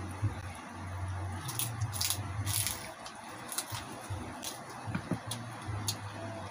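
Close-up eating sounds: crispy deep-fried pork skin crackling as it is bitten, with wet chewing and lip smacks. The crackles come irregularly, several in a row about two seconds in and a few more later.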